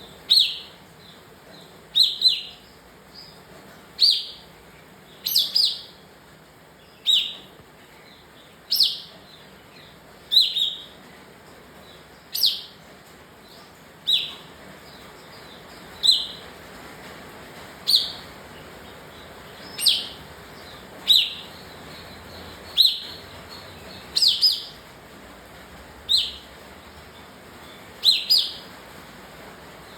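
Kapas tembak bulbul giving short, loud, sharp calls about every two seconds, several of them doubled, in the worked-up, agitated state that bird keepers call "emosi".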